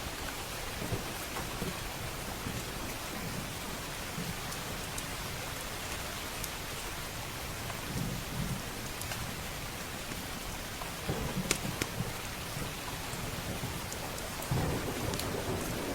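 Steady rain with thunder rumbling low, growing about eight seconds in, stronger about eleven seconds in, and again near the end. Occasional sharp crackles, like a wood fire's, pop over the rain.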